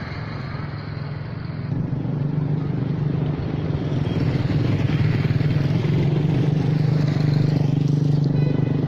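A motor vehicle's engine running steadily with a low hum, growing louder about two seconds in.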